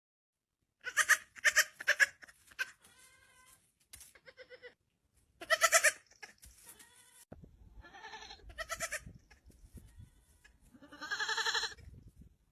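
Goat bleating in a string of short calls: three loud ones in quick succession about a second in, another near the middle, and a longer wavering bleat near the end.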